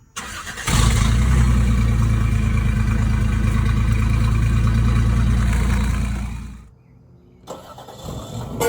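Truck engine starting and running at a steady idle, its exhaust fed through an eight-foot pipe. It gives a deep, even drone that fades out and stops about six seconds in.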